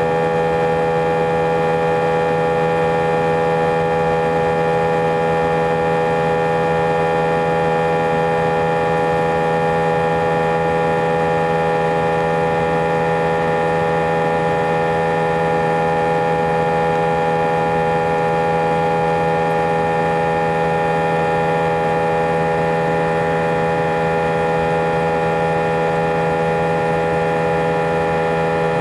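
Airbus A320 engine noise heard inside the cabin: a loud, unchanging drone with many steady tones layered over a rushing noise. It is abnormally loud, enough that several passengers felt something was not right.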